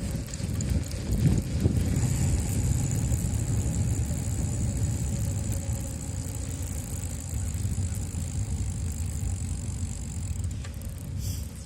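Wind buffeting the microphone of a handlebar-mounted GoPro on a moving bicycle: a loud, steady low rumble, with a faint high steady whine through the middle.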